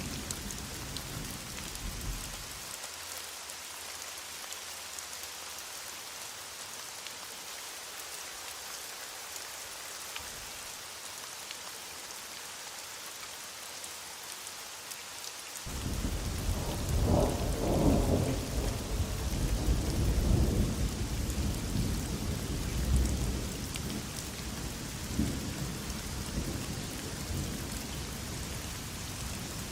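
Heavy rain falling steadily, with a low thunder rumble dying out in the first couple of seconds. About halfway through a new roll of thunder starts suddenly, is loudest a few seconds later, then slowly rumbles away.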